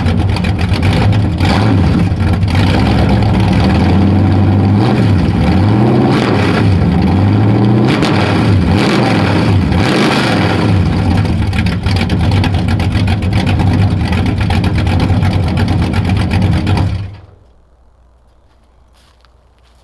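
Straight-piped Chevy 350 small-block V8 with a Summit Racing 8802 cam running and being revved several times, each rev a rise and fall in pitch. The engine shuts off about 17 seconds in.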